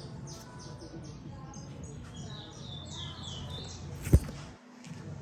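Small birds chirping, many short quick calls each sliding downward in pitch, with a single sharp knock about four seconds in.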